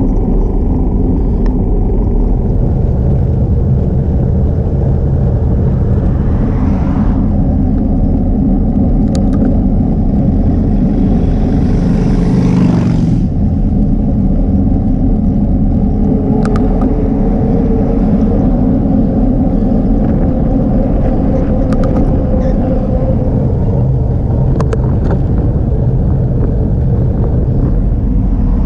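Wind buffeting the microphone and road rumble from a Trek 8.6 DS bicycle being ridden: a steady, loud low rumble. A brief swell of hissier noise comes about twelve seconds in, and there are a few faint clicks.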